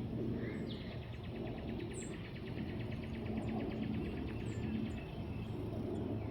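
An insect trilling: a rapid, even pulsing buzz that starts just under a second in and fades near the end, over a steady low rumble.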